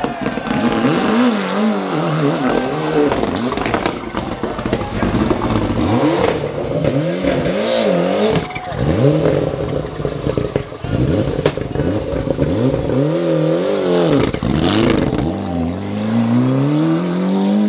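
Rally car engine at full attack, revving hard and dropping back over and over as the driver works the throttle and gears, with one long climbing rev near the end.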